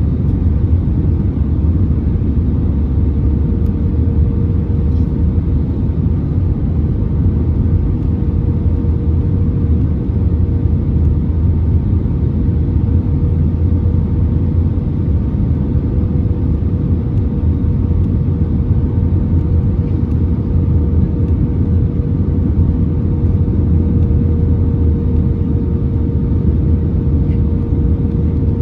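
Airbus A320neo cabin noise in flight: a steady, loud rumble of engines and airflow, with a constant hum running through it.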